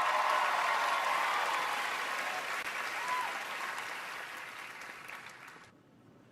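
Audience applauding, with a few voices calling out early on; the applause fades and cuts off about five and a half seconds in.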